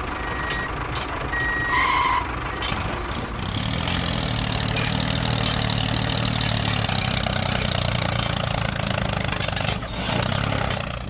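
A few short high beeps, then from about three seconds in a vehicle engine running steadily with an even low hum, as a mini tractor or bulldozer is set going.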